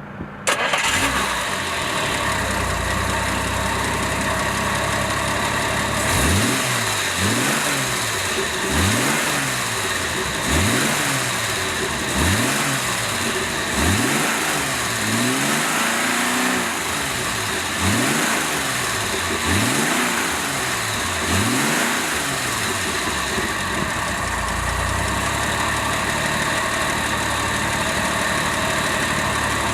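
1969 Jaguar E-type's 4.2-litre straight-six running at idle, then revved in a series of about ten short throttle blips, each rising and falling in pitch roughly every two seconds, before settling back to a steady idle near the end.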